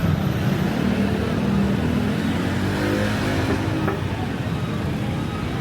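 Street traffic with a motor vehicle's engine running close by, its pitch rising a little as it accelerates in the middle, easing off toward the end.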